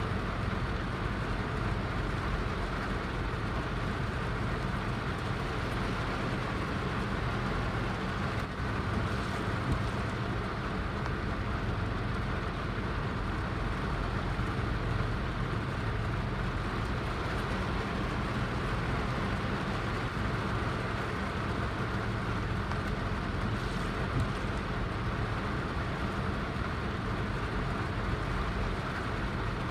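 Heavy rain falling steadily, a constant hiss with a deep low rumble underneath.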